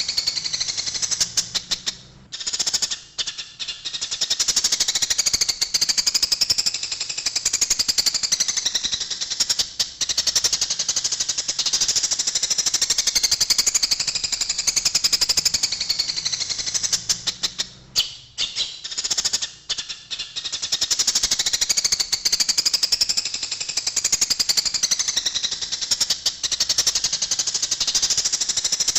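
Eurasian tree sparrows chattering and chirping in a rapid, nonstop scolding racket, the agitated calls of sparrows fighting, broken by two short lulls.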